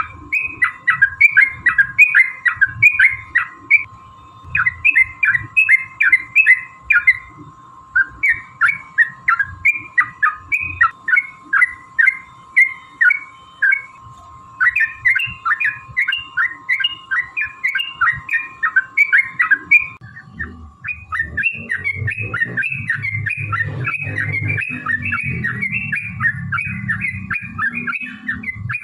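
Yellow-vented bulbul (trucukan) singing in rapid, bubbling chattering phrases of a few seconds each with short pauses between them. About two-thirds of the way through, the song becomes a denser unbroken run over a low rumble.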